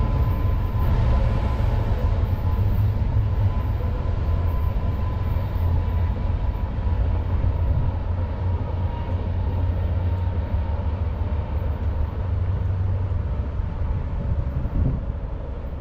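Freight train rolling by: a steady, heavy low rumble of cars on the rails with a thin, steady high tone over it, easing slightly near the end.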